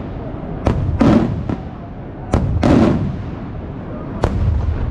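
Maltese cylinder fireworks shells bursting overhead in a string of about six sharp bangs, each followed by a rolling rumble of echo.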